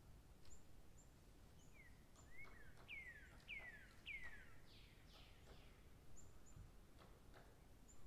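Faint birdsong: a quick run of clear whistled notes, each falling in pitch, about two seconds in. Short, high chips are scattered throughout.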